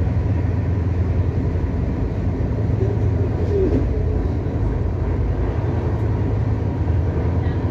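Shatabdi Express train running at speed, a steady low rumble heard from inside the passenger coach.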